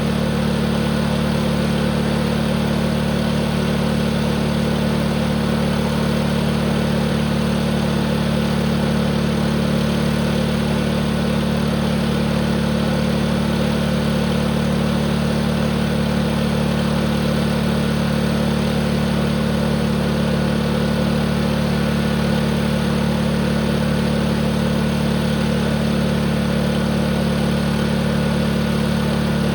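Tractor engine running steadily at one constant speed, its pitch and loudness unchanging.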